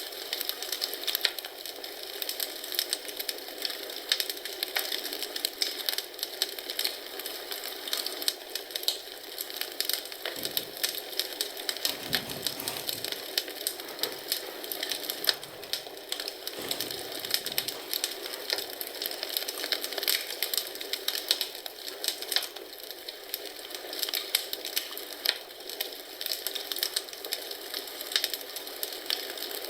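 Wood fire in a fireplace crackling and popping, with dense, irregular snaps over a steady hiss. A few soft low rumbles come through about a third of the way in.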